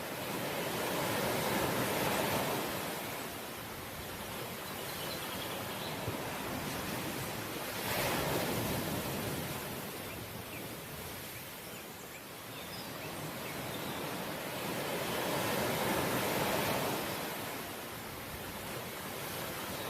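Ocean waves washing onto the shore in slow surges, swelling and ebbing roughly every six to eight seconds.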